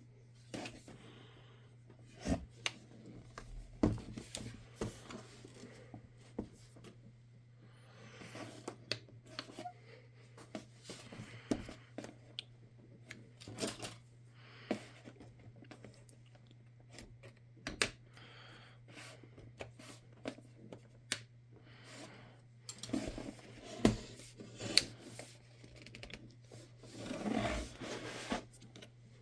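Hands working on a laptop: scattered sharp clicks, taps and short scraping or rubbing of plastic parts, over a steady low hum.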